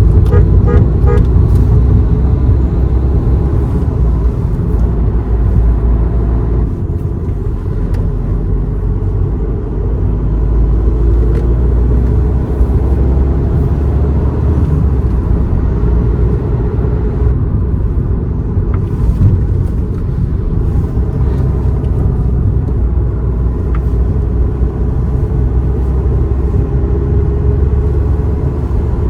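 Car driving on a road, a steady rumble of engine and road noise. There is a brief horn toot in the first second or so.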